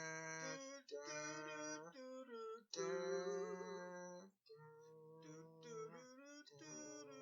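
Music: a run of held, wavering notes about a second each, sung or hummed without words, with short breaks between them.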